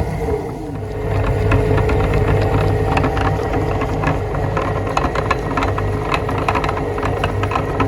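Electric meat grinder's motor running steadily, with irregular clicks and crackles as donuts are pushed through and minced.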